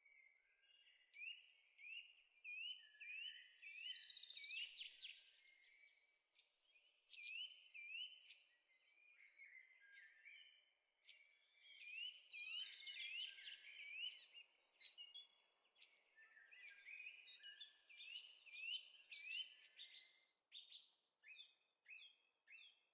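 Small birds singing faintly, with runs of short, rising chirps repeated a couple of times a second and quick high ticks in between.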